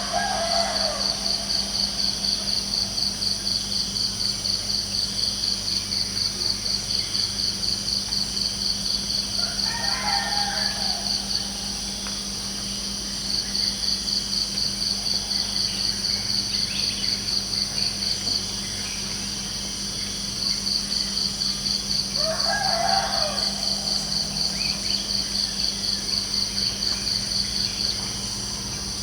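Crickets chirping in a high, rapidly pulsing trill that runs in long stretches with short pauses. A rooster crows three times: right at the start, about a third of the way in, and about three quarters of the way through. A steady low hum lies underneath.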